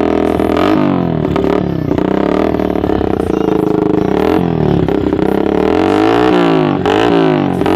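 Yamaha Vixion's single-cylinder four-stroke engine through an aftermarket racing exhaust, running steadily, then revved up and down repeatedly from about a second in as the throttle is blipped.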